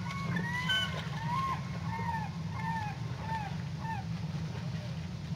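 A bird calling in a quick run of short, arched, honking calls, about three a second, that die away about four seconds in, over a steady low background rumble.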